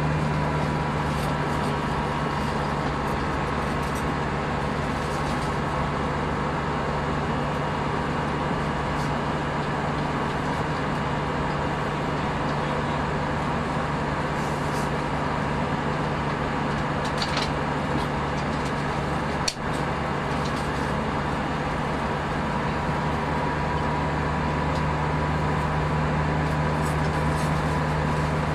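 Airbus A319 cabin noise in flight: a loud, steady rush of airflow and engine drone with a constant low hum. There is a single brief click about two-thirds of the way through.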